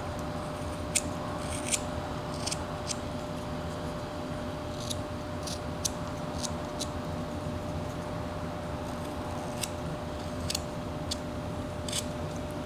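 Carving knife taking small slicing cuts in a wooden bird figure: short, sharp snicks at irregular intervals, roughly one every second.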